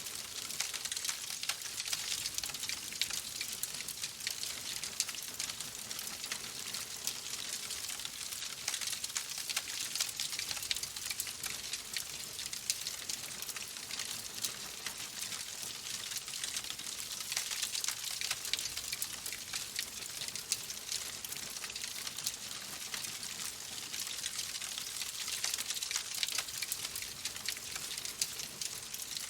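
Fireplace crackling steadily: dense small pops and snaps over a soft hiss.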